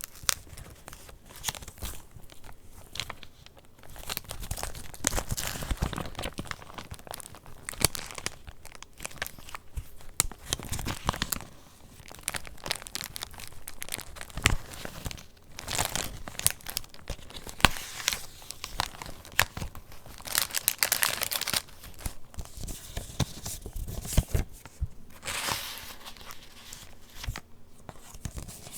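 Pages of a handmade paper junk journal being turned and handled: paper rustling and crinkling, with many small clicks and taps and a few louder rustles.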